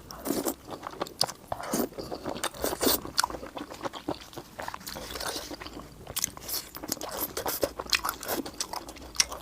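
A person biting and chewing food with crunchy sounds, many short irregular clicks and crunches coming one after another.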